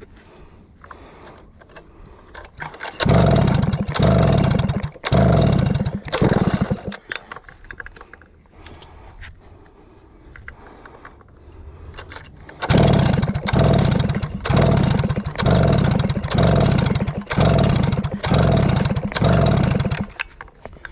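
Stihl 051 chainsaw being pulled over on its recoil starter without starting: four quick pulls, a pause, then about eight more, the engine turning over with each pull. The pulls are meant to clear water out of the engine.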